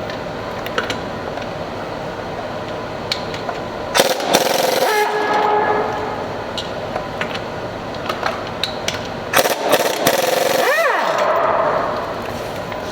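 Two loud bursts from a power tool during wheel and brake work, about 4 and 9.5 seconds in. The second burst's whine rises and falls in pitch. Sharp clicks and clanks are heard throughout.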